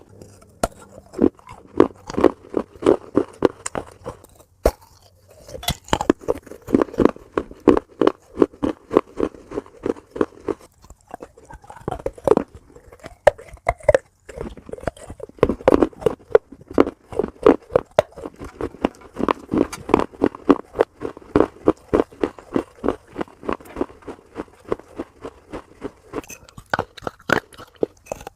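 Close-miked chewing of crunchy food: crisp crunches at about four a second in long runs, with short pauses about five, eleven and fourteen seconds in.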